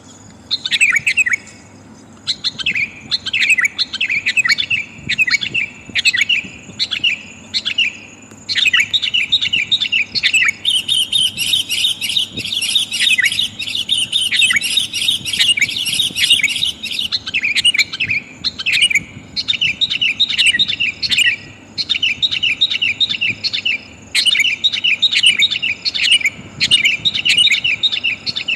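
Sooty-headed bulbul calling: quick, repeated chattering phrases, with a denser, unbroken run of chatter about 11 to 17 seconds in. It is billed as a female calling to draw in a male.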